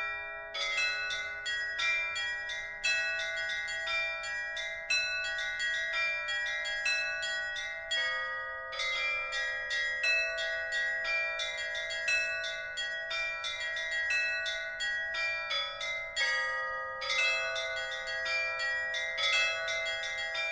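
A peal of several bells struck in quick, repeating patterns, several strokes a second, each note ringing on under the next, with two short breaks partway through.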